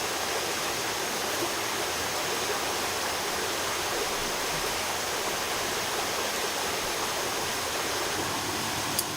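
Steady rushing of a flowing stream, with one short sharp click near the end.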